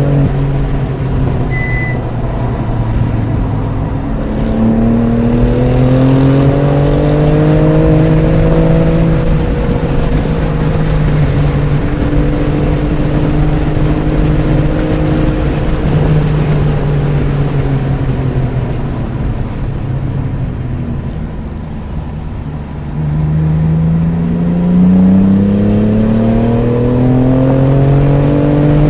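BMW F80 M3 Competition's twin-turbo straight-six under hard track driving, engine pitch climbing under acceleration and falling off under braking. It eases down and goes quieter about two-thirds of the way through, then picks up sharply and climbs again near the end.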